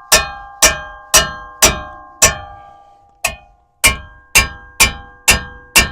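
Hammer blows on a wrench over a 24 mm bolt, tightening it: eleven sharp metallic strikes, about two a second, each ringing briefly, with a short pause near the middle.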